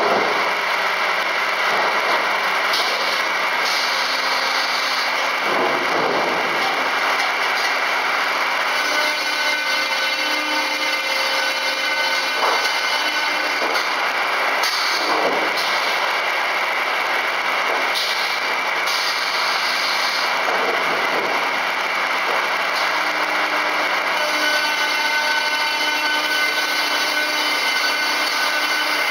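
FKD 500 double-arbor circular saw running, a steady loud mechanical noise with a constant high whine.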